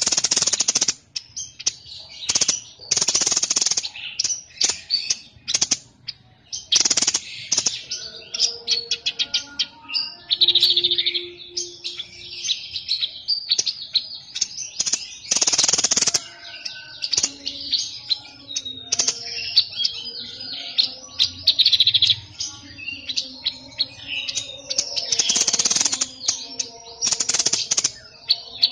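Caged songbird of the kind Indonesian bird keepers call a 'sniper' singing non-stop, a dense run of rapid, high-pitched chirps and trills broken by loud, harsh bursts every few seconds.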